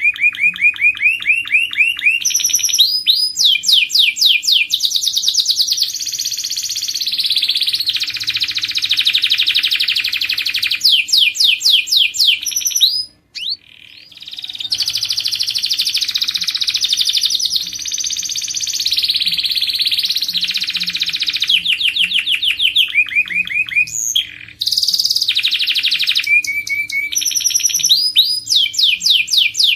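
Domestic canary singing a long, loud song made of rapid trills, each a run of quick repeated notes, switching pitch from one phrase to the next, with one short pause about halfway through.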